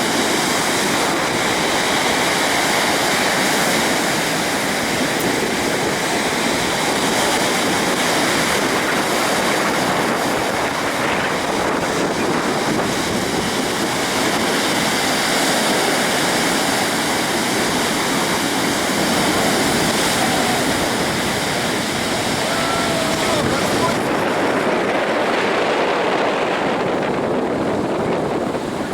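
Waterfall rushing steadily: a continuous hiss of falling water, with the highest part of the sound thinning out near the end.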